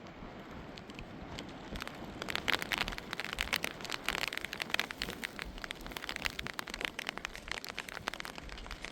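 Rain pattering on a surface, a dense crackle of drops that grows heavier about two seconds in and eases near the end.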